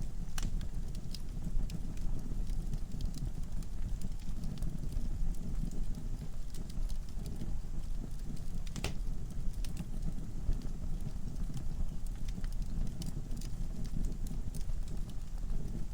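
Wood fire crackling in a fireplace: irregular sharp snaps and pops of burning logs over a low steady rumble of the flames, with a louder pop near the start and another a little past halfway.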